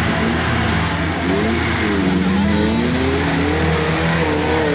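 Suzuki Samurai off-road engine revving up and down under load while crawling up a steep muddy slope, its pitch rising and falling with the throttle.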